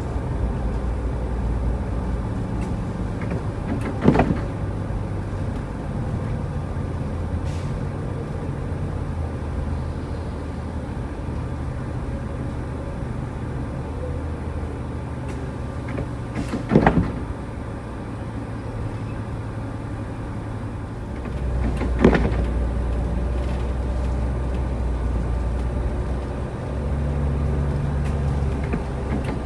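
Car driving, heard from inside the cabin: a steady low engine and road rumble, with a few single sharp knocks at irregular times.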